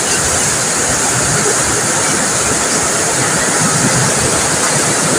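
Heavy rain pouring down in a steady hiss, a downpour during a thunderstorm.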